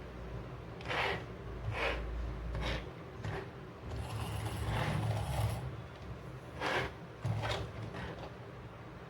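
Plastic toy truck and toy cars being handled: a few short plastic clicks and knocks, with a longer scraping, rolling rub in the middle.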